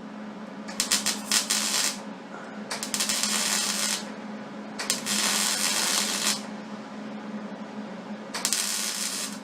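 Stitch welding on a water heater tank: four short bursts of welding crackle, each a second or so long, with pauses between beads, over a steady low hum.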